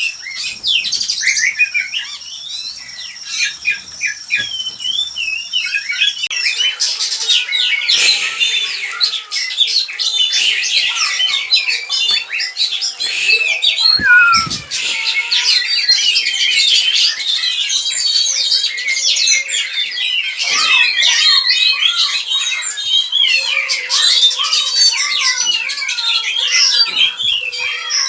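Oriental magpie-robins (kacer) calling in their breeding cages: many overlapping chirps, squawks and whistled notes that grow much busier about six seconds in. A brief dull knock comes about halfway through.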